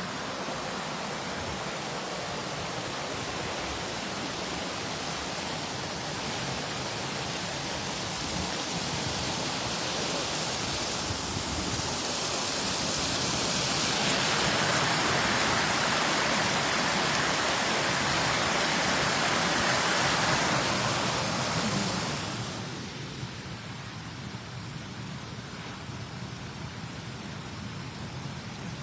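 Small waterfall rushing steadily, growing louder partway through and then dropping back quickly to a quieter, steady rush near the end.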